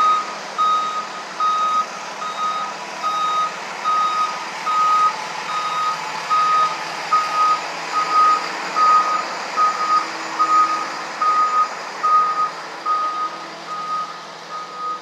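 A truck's reversing alarm beeping evenly, about two beeps a second, over steady street noise.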